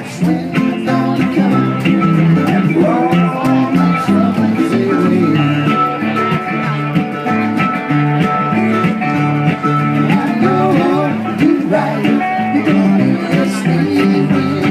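A live band playing, with guitar and other plucked strings to the fore.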